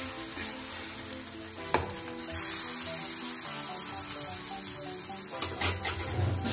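Small pearl-millet (bajra) flour chilas frying on a hot griddle pan, a steady sizzle of oil, with two sharp clacks of the metal spatula against the pan, about two seconds in and again near the end.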